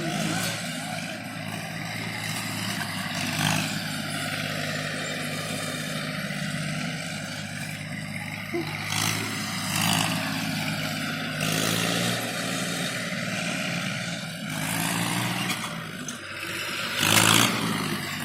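Tractor engine running steadily under way, with a few short louder rattling bursts, the loudest near the end.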